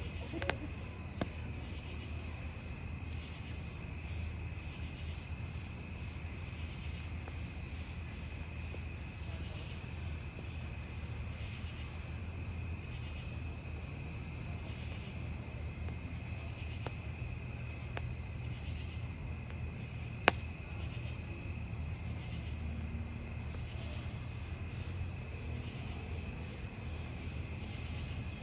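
Crickets chirping in a steady high trill over the low, even noise of a wood campfire. A few sharp pops of burning firewood come through, the loudest about twenty seconds in.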